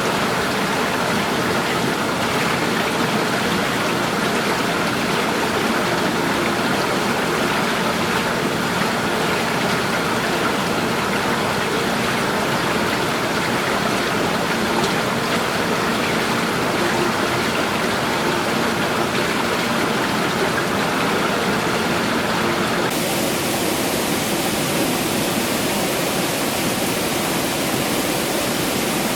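Steady rush of flowing water, a stream or cascade running continuously. About three-quarters of the way through it changes abruptly to a hissier, more even rush of water.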